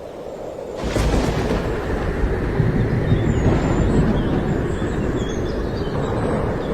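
A sudden bang about a second in, followed by a steady low rumble.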